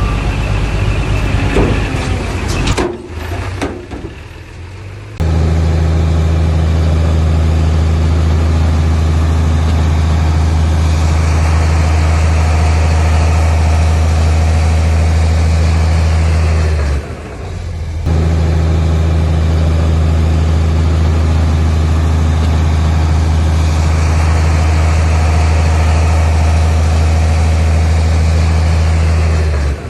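Heavy diesel engine of earthmoving equipment running at a steady speed, a low, even drone. After a few uneven seconds it comes in abruptly, breaks off for about a second past the middle, and stops suddenly again at the end.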